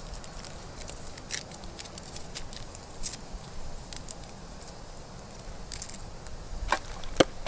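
Campfire crackling with scattered light clicks, and a couple of sharper knocks near the end.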